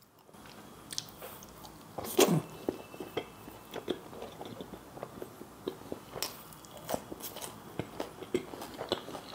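Close-miked chewing of a mouthful of meat curry, with irregular wet mouth smacks and small clicks and one louder smack about two seconds in.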